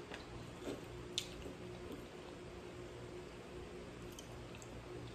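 Faint chewing of a mouthful of sushi, with a few small mouth clicks over a steady low hum.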